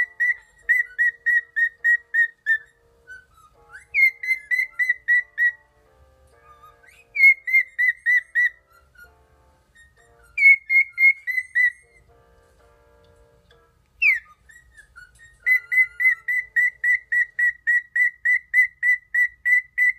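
Cockatiel whistling in phrases of quick repeated notes, about four a second at nearly one pitch, with short pauses between phrases; the last phrase, near the end, is the longest.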